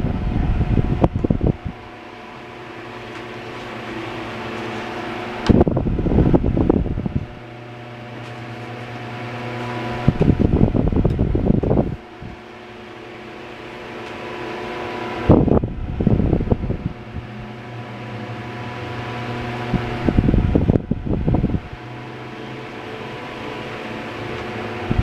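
A 1950s Chicago Electric Handybreeze 10-inch single-speed table fan running with a steady, quiet motor hum. Every five seconds or so a gust of its air buffets the microphone for a second or two.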